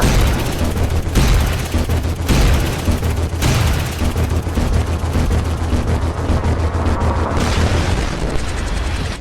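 Loud intro soundtrack of booming, gunfire-like blasts: dense noise over a pulsing deep bass, cutting off abruptly at the end.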